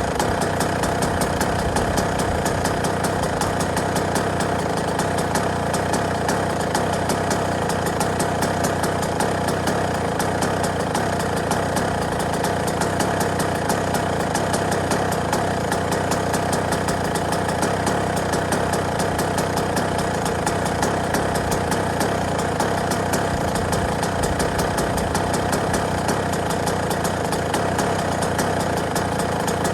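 Yamaha YZ125 two-stroke motocross engine idling steadily, with an even, unchanging beat.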